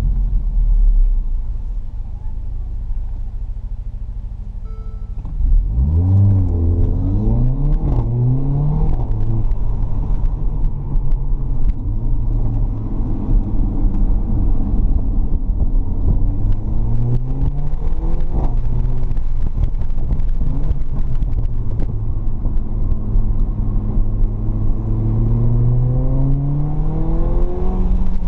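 Mercedes-AMG CLA45's turbocharged 2.0-litre four-cylinder engine heard from inside the cabin. It runs low and steady for about five seconds, then accelerates hard, its pitch climbing in several quick steps as it shifts up. Later come a shorter rising pull and a long rising pull near the end.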